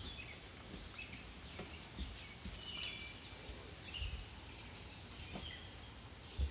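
Birds chirping faintly, mixed with scattered light taps and one sharp click a little before three seconds in.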